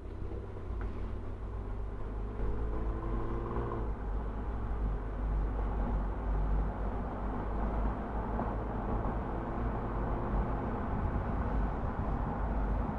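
Car driving on an open road: a steady rumble of road and tyre noise under the engine's hum. The engine tone climbs slowly, then drops about four seconds in.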